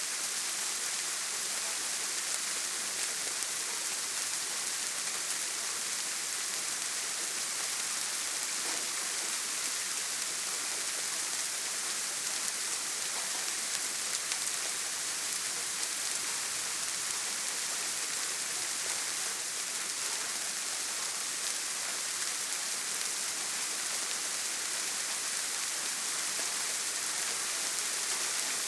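Steady rain falling on a tin roof, an even hiss with no thunder.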